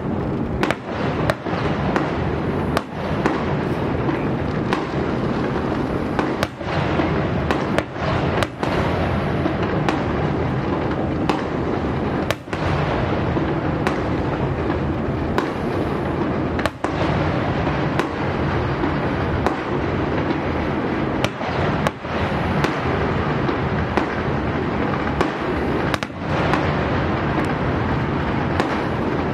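Many fireworks going off at once across the city: a continuous crackling din, with sharp bangs of bursting shells scattered irregularly throughout.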